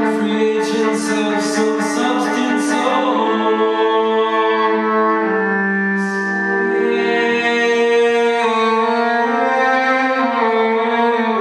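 Violin played live through a loop pedal: layered, sustained bowed notes stacked into chords, with a few short scratchy bow strokes in the first few seconds.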